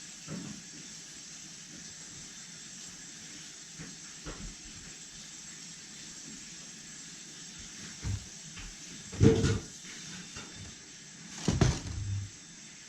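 A few dull knocks and thumps over a steady background hiss. The loudest comes about nine seconds in and another near the end.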